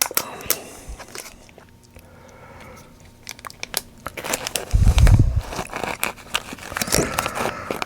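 Crinkling and clicking of plastic film and adhesive tape being handled and pressed around a touch-screen panel, with a dull thump about five seconds in.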